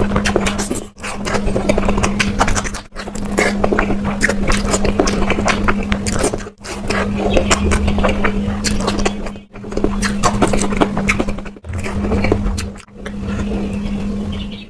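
Close-up eating sounds: wet chewing, smacking and food being scraped and mixed on a plate, as a dense crackle of small clicks over a steady low hum. The sound breaks off in several brief gaps.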